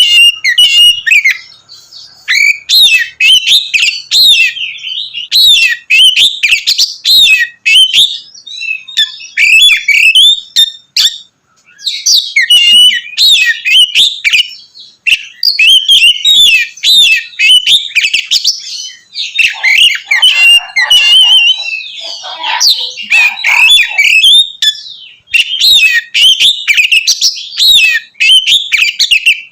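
Oriental magpie-robin (kacer) singing loudly and almost without a break: rapid, varied runs of whistled and chirping phrases with a few short pauses.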